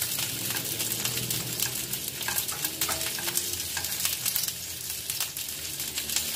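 Dumplings frying in oil in a frying pan: a steady, dense sizzle with many small crackles and spits.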